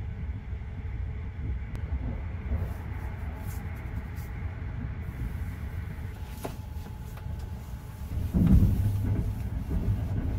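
Steady low rumble of the 285-series Sunrise Express sleeper train running, heard from inside a sleeping compartment. About eight and a half seconds in there is a louder thump.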